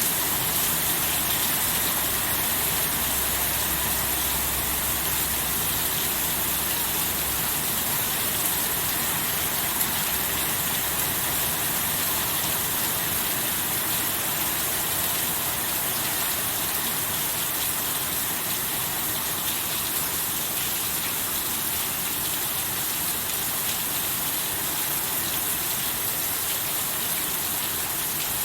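Heavy, steady rainfall: an even, unbroken hiss of rain pouring down, with a faint low rumble under it for the first several seconds.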